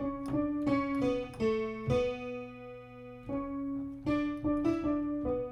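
Keyboard played with a piano-like tone: single notes in a short, even rhythm pattern that walks down from the third in the key of D. One note is held near the middle before the pattern picks up again.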